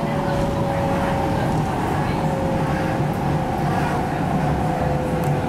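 Inside an MTR Tung Chung Line K-train under way: steady running rumble with a motor whine whose pitch falls slowly.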